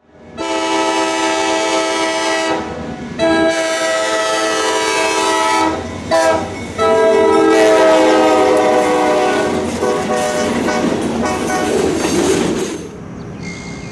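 Amtrak passenger locomotive's air horn blowing the grade-crossing signal: two long blasts, a short one, then a final long blast, followed by the rumble and wheel clatter of the train passing.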